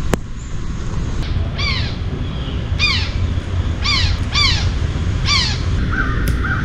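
A bird calling: a series of about six short, harsh caws, each falling in pitch, spread over about four seconds.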